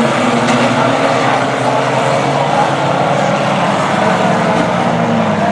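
Engines of several Reliant Robin three-wheeled banger-racing cars running together, a steady, loud mechanical drone whose pitches shift slightly as the cars change speed.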